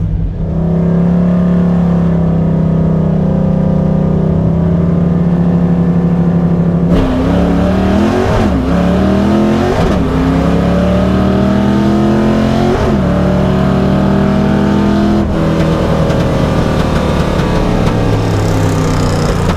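1989 Mustang GT's 5.0 V8 held at steady revs, then launching hard and accelerating through the gears with three shifts, each rise in pitch cut by a sudden drop. Near the end the throttle comes off and the engine winds down.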